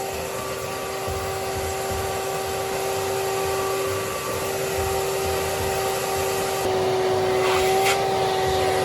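Small wet/dry shop vac running with a steady whine while it sucks water out of a water line. Its note shifts slightly about seven seconds in.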